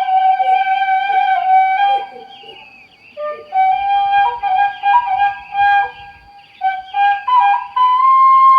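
Background music: a flute playing a slow melody of long held notes, breaking off briefly about two seconds in and again around six seconds.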